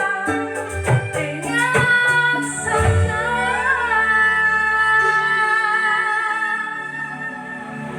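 A woman singing an Indonesian song over instrumental backing, with struck notes in the first few seconds, then one long held note.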